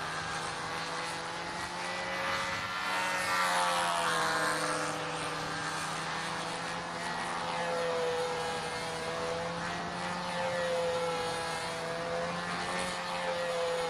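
Small two-stroke model airplane engine running in flight, a steady high drone whose pitch and loudness waver, swelling as the plane passes about three to four seconds in and again near eight seconds.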